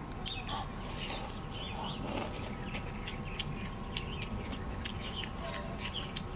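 A person chewing food with the mouth close to the microphone: a steady run of small, irregular wet clicks and lip smacks.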